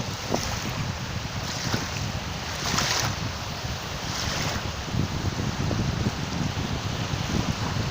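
Caspian Sea waves washing in, a brief hissing surge every second or so, over a steady low rumble of wind buffeting the microphone.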